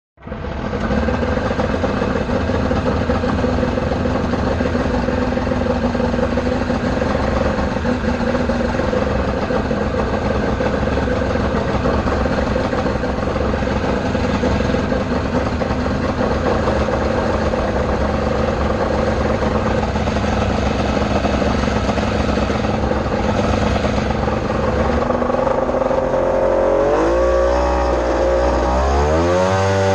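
Mini jet boat's engine running at a steady speed, then revving up and down several times in the last few seconds.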